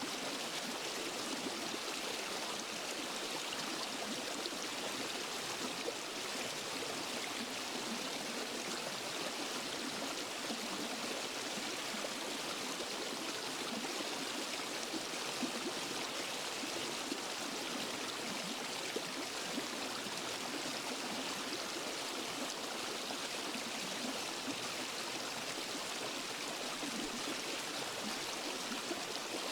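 Waterfall and stream water rushing and splashing in a steady, unbroken wash of sound, with no voices or music.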